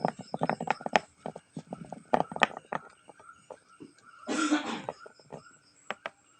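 Spark plug clicking and knocking in quick irregular runs as a kitten bats it about. About four seconds in there is a short cough.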